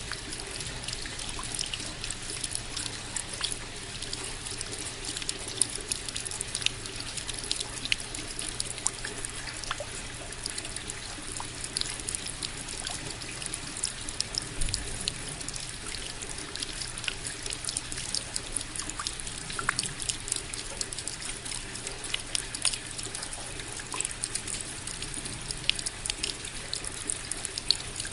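Steady rain: many distinct, irregular drops hitting close by over a continuous wash of falling water.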